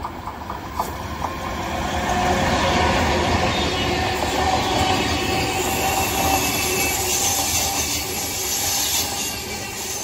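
Double-deck Intercity passenger train running past on the near track. It grows louder over the first two seconds, then keeps up a steady rumble of the passing coaches with thin, high ringing tones from the wheels.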